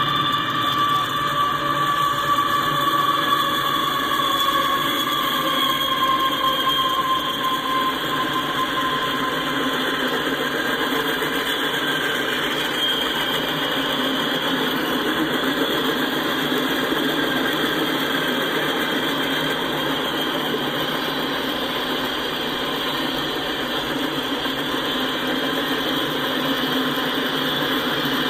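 CSX freight train passing at speed behind its two diesel locomotives: engine noise with a high whine that drops a little in pitch and fades over the first several seconds. Then the steady rolling noise of tank cars and freight cars going by on the rails.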